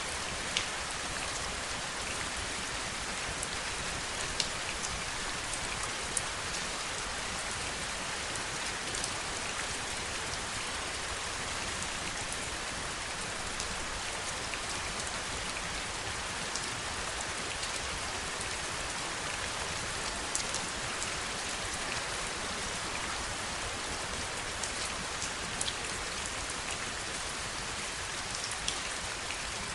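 Steady heavy rain, an even hiss with scattered sharp drips and taps of single drops hitting a surface close by.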